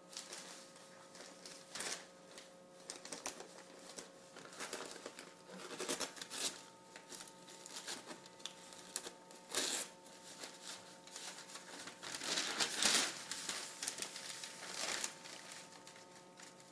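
Rigid plastic being handled: PVC crate panels and snap-on clips scraping, rustling and clicking in irregular bursts, with a longer, louder scrape about halfway through. A faint steady hum runs underneath.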